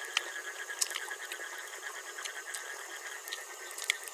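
Frog chorus with insects calling steadily, a dense repeating trill, broken by a few sharp clicks.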